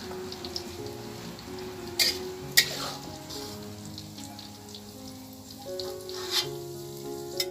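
Shredded young papaya sizzling in hot oil in a wok, with a metal spatula knocking and scraping against the pan a few times, the sharpest knock about two and a half seconds in. Calm piano music plays throughout.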